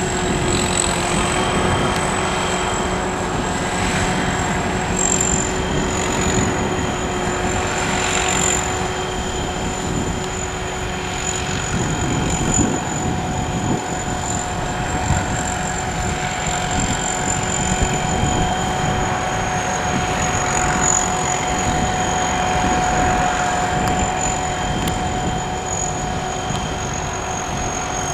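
Sakpattana SS-200 mini corn combine harvester running under load, its engine and threshing machinery making a steady dense mechanical noise. A steady high whine runs over it, and a lower hum drops out about twelve seconds in.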